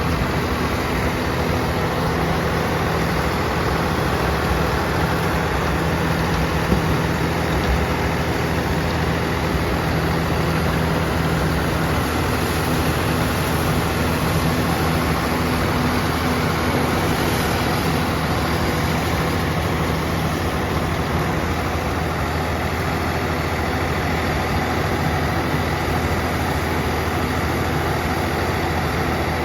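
Swaraj 969 FE tractor's diesel engine running steadily while it drives a rotavator at creeper speed, with a broad mechanical rumble from the tiller.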